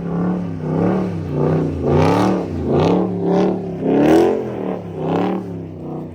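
Dodge Scat Pack's 6.4-litre HEMI V8 revving in a run of about eight quick surges, its pitch rising and falling with each one, as the car is driven on snow with little traction.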